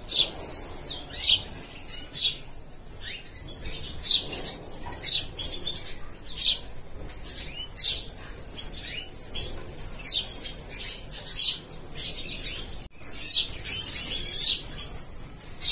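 Small birds chirping: short, sharp, high-pitched chirps repeated irregularly, about one a second.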